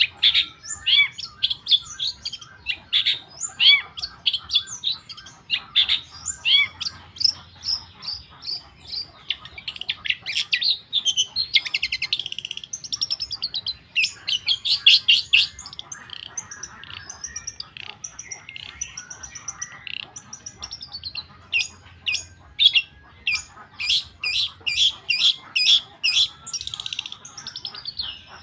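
Long-tailed shrike (cendet) singing a long, varied song of short chirps and whistled notes, broken by several fast rattling runs of rapidly repeated notes.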